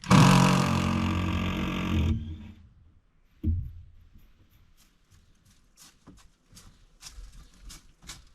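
A handheld power drill runs at a steady speed for about two seconds and stops, most likely backing fasteners out of the boat's interior. A single knock follows about three and a half seconds in.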